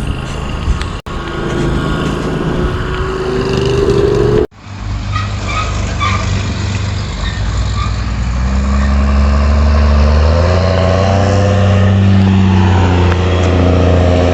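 A farm tractor's engine running as it travels along the road, growing louder from about eight seconds in as it approaches. The sound breaks off abruptly twice in the first five seconds.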